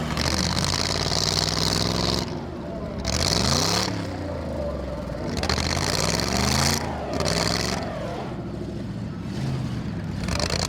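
Demolition derby cars' engines running hard and revving, their pitch rising and falling again and again, with more than one engine heard at once.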